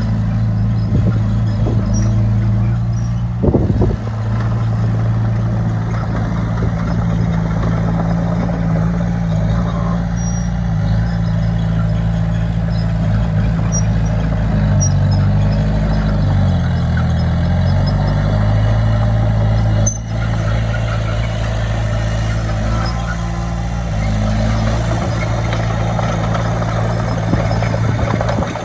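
Heavy diesel engine of a bulldozer running steadily. Around the middle its pitch sags for a couple of seconds and then comes back up, as under load.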